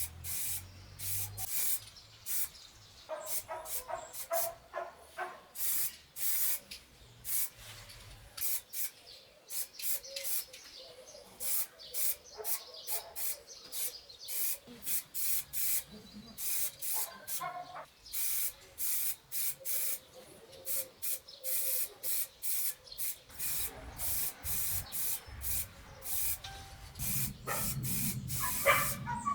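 A long run of short, sharp hisses, one after another at irregular intervals, with a low hum coming in over the last few seconds.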